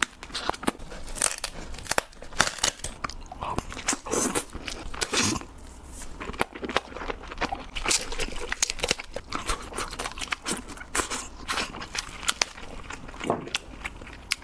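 Close-miked eating of giant crab: shell cracking and crunching between the teeth, with chewing in between, in many quick sharp crunches.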